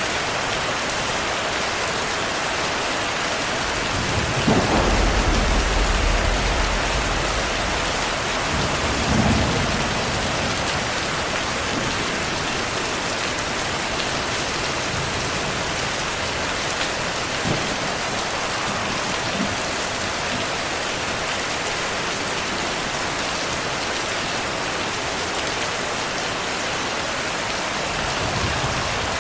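Steady rainfall with thunder. A low rumble of thunder swells about four seconds in and lasts several seconds, another roll comes near nine seconds, and a faint rumble comes near the end.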